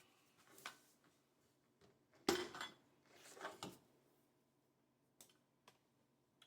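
A few clinks and knocks of hard metal parts being handled and set down, the loudest about two seconds in, then two faint clicks near the end.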